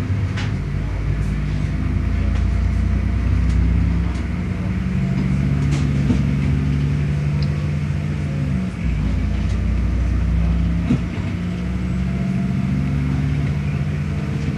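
Running noise of a moving passenger train heard from inside the carriage: a steady low drone from the drive, with a few faint clicks. The drone dips briefly about nine seconds in, then returns.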